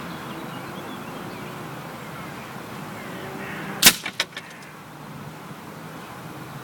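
A single shot from a Weihrauch HW97K spring-piston air rifle: one sharp crack a little under four seconds in, followed within half a second by a couple of quieter clicks.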